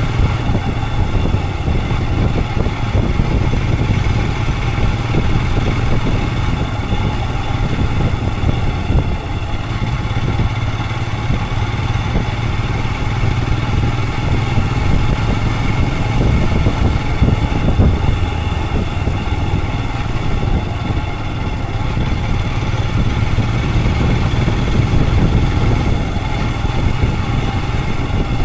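Royal Enfield Himalayan 411's single-cylinder engine running steadily while riding, with a strong low rumble.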